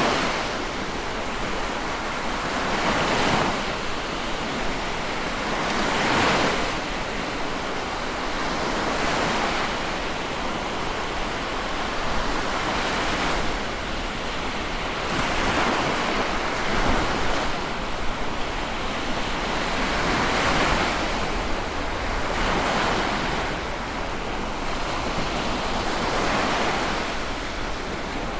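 Sea waves washing onto the shore, a steady rush of surf that swells every two to three seconds.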